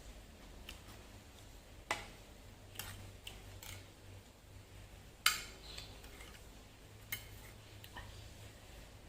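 Eating at a table: scattered light clicks and clinks against dishes, about six in all, the loudest about five seconds in, over a faint steady low hum.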